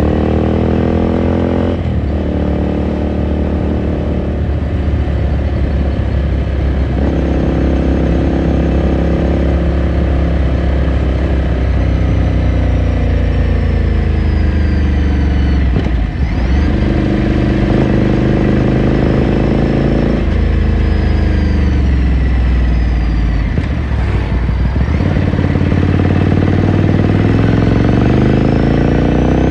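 A Ducati Scrambler Sixty2's 399 cc air-cooled L-twin pulls through the gears under way. Its note climbs in pitch, then drops at each shift, over and over, with brief throttle-offs about halfway and again near the end.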